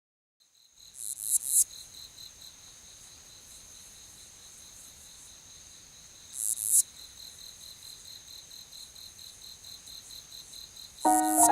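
Insects calling: a steady, high, pulsing trill, with three louder, higher buzzes, about a second in, about halfway, and near the end.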